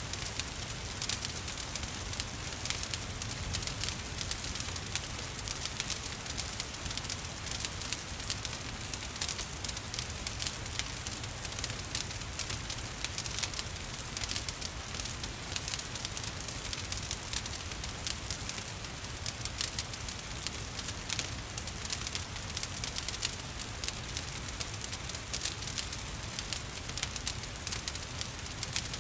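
Wood fire crackling and popping steadily in a fireplace, dense small snaps over a low rumble, with rain falling as a soft steady hiss beneath it.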